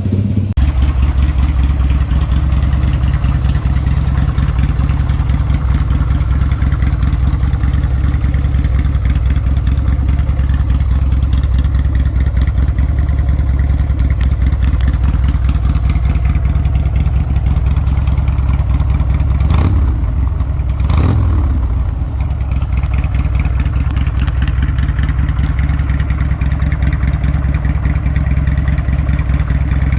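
Buell X1 Lightning's 1203 cc V-twin idling steadily, with two short blips of the throttle about twenty seconds in.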